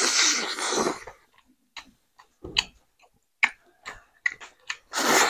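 Close-up eating sounds: scattered short smacking clicks of chewing, between two longer noisy bursts, one at the start and one near the end.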